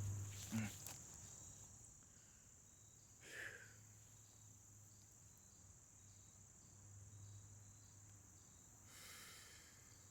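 Crickets or similar insects giving a steady, faint high-pitched trill, with a softer chirp repeating about twice a second. A knock at the start and a couple of brief rustles sound over it.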